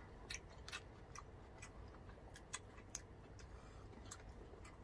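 Faint, irregular wet clicks and smacks of people chewing food close to the microphone, about two or three a second.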